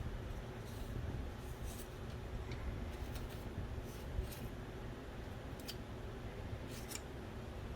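Faint, scattered clicks and light scrapes, about six in all, from the small plastic and metal parts of a DVD drive being handled during disassembly, over a steady low hum.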